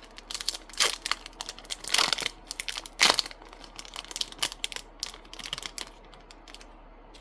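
Trading card booster pack wrapper being torn open and crinkled by hand: a run of crackling rustles for about six seconds, loudest about three seconds in.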